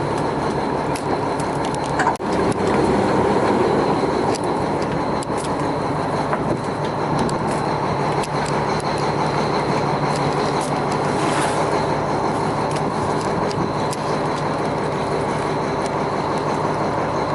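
Engine running steadily, with a constant hum and scattered sharp clicks and knocks over it.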